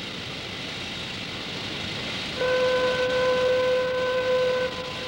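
Steady hiss, then about two and a half seconds in a steady one-pitch warning horn sounds for about two seconds, stops, and starts again near the end, the kind of signal sounded before a dynamite blast.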